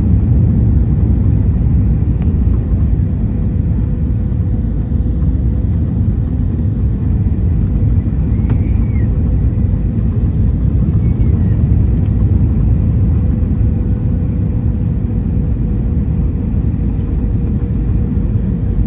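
Steady low rumble of an Airbus A321 heard from inside the economy cabin: engine and airflow noise with a faint constant hum on top.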